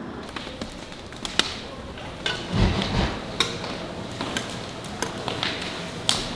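Cooking clatter: scattered sharp knocks and clicks of utensils and cookware, with a low thump about two and a half seconds in, over a faint steady sizzle.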